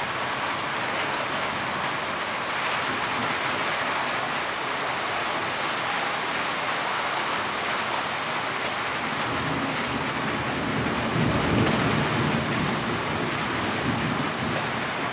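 Heavy rain falling steadily, a dense even hiss, with a low rumble of thunder swelling about ten seconds in.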